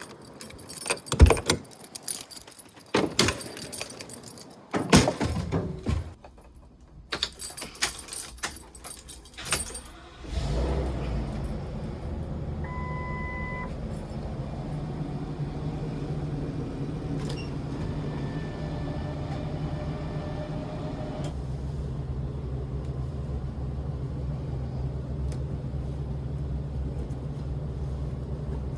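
Keys jangling with scattered clicks for about the first ten seconds, then the Forest River FR3 motorhome's Ford V10 gas engine starts and settles into a steady idle. A short electronic chime sounds twice just after it starts.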